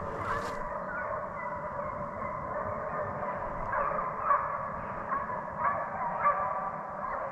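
A pack of deer hounds baying in chorus as they run a track, many overlapping voices at once, with a few louder single bawls in the second half.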